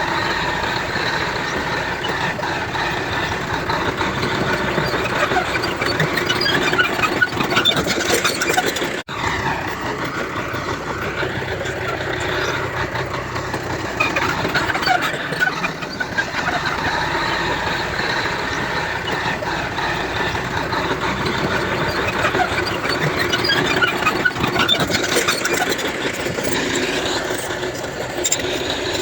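Heavy earthmoving machinery at work: diesel engines running steadily, with scattered short metallic ticks and squeaks over the top. There is a brief dropout about nine seconds in.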